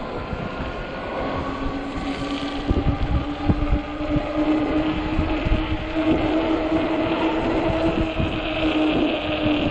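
Electric hub motor of a 48 V fat-tire e-bike whining steadily under power; its pitch rises slightly about a second in and then holds. Under it, wind rumbles and buffets the microphone.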